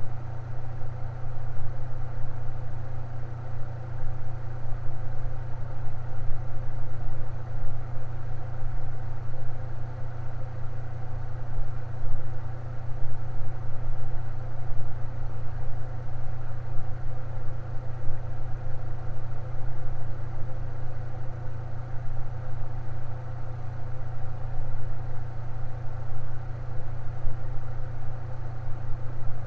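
Electric fan running steadily, a strong low motor hum with steady tones above it.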